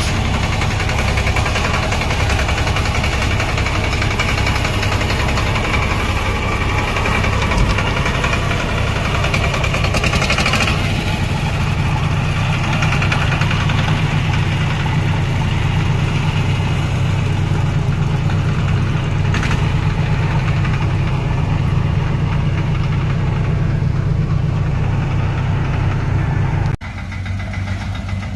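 Tractor engine running steadily under load. Near the end the sound drops suddenly to a quieter, thinner engine note.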